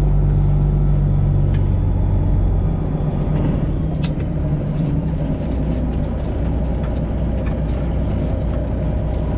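Semi truck's Detroit Diesel 12.7 engine running at low speed while backing up, its note dropping about three seconds in. A few light clicks, one sharper about four seconds in.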